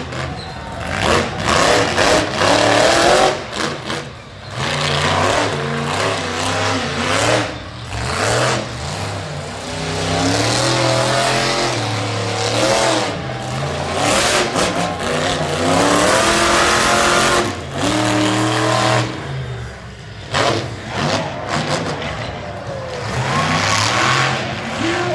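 Monster truck engine revving hard, its pitch climbing and falling again and again, with short drops each time the throttle is lifted.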